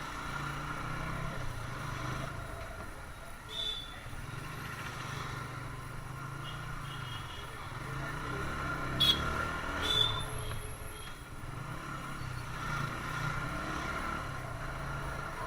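TVS Apache RTR 160's single-cylinder engine running steadily under way, heard from the bike with road and wind noise. A few short high beeps come through about four seconds in and again around ten seconds in, with a sharp click just before.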